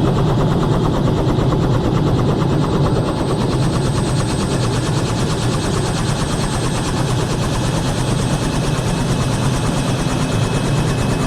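Robinson R66 helicopter running on the ground just after landing, its Rolls-Royce RR300 turbine whining over the rapid, even beat of the main rotor.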